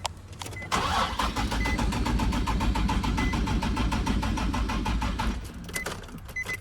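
Nissan 350Z's VQ V6 cranked over by the starter, an even rapid chugging for about four and a half seconds, then the starter stops without the engine catching. The car is being jump-started.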